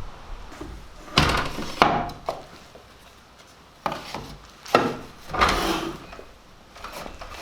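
Cedar boards being handled: about five irregular wooden knocks, two of them drawn out into a brief scrape of wood sliding on wood.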